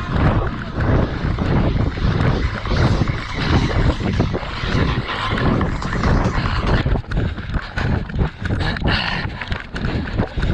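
Wind buffeting a GoPro action camera's microphone as the runner wearing it runs, with a steady run of low thumps from the camera being jolted at each stride.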